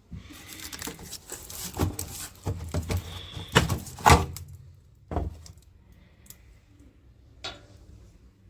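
A series of knocks, rattles and clatter of hard objects being handled, loudest in the first five seconds, followed by a few single clicks.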